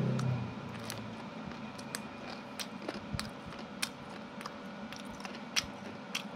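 A person chewing and biting sauced chicken feet: irregular wet clicks and small crunches, over a steady faint hum.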